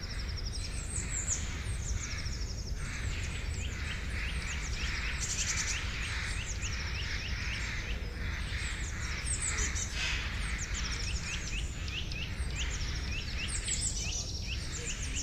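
A chorus of forest birds singing and chirping over one another, with many quick high chirps and rapid trills, over a steady low rumble.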